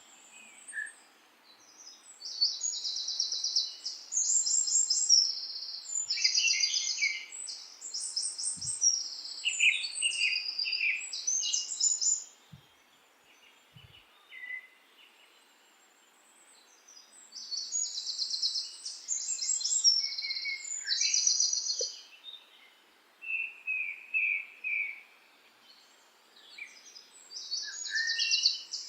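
Songbirds singing in spells: rapid high trills alternating with shorter, lower chirps, with a few quieter pauses, over a faint steady background hiss.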